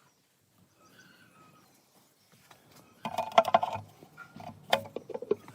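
A faint thin chirp early on, then from about three seconds in a run of clattering knocks and clicks, like hard objects being handled and set down.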